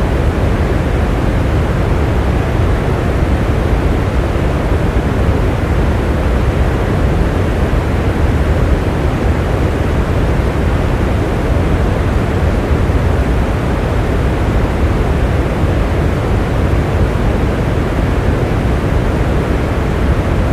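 Steady rain, an even rushing noise heaviest in the low end, with no separate drops or thunder standing out.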